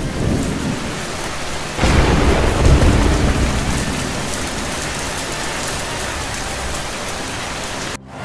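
Heavy rain pouring steadily, with a roll of thunder rumbling in about two seconds in and fading after a second or two.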